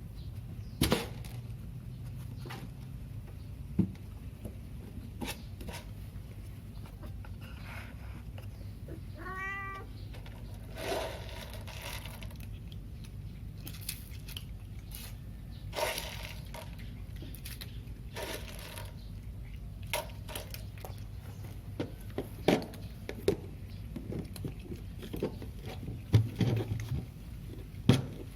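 A cat meowing once, about a third of the way in, among scattered sharp knocks and clicks over a low steady hum; some of the knocks are louder than the meow.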